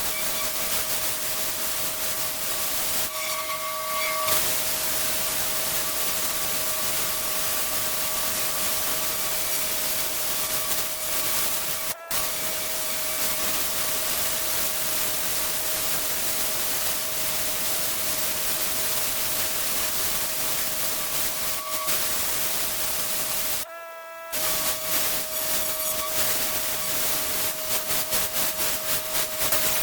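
Pressure washer spraying: a steady hiss of high-pressure water with a constant whine from the machine, briefly dropping out twice.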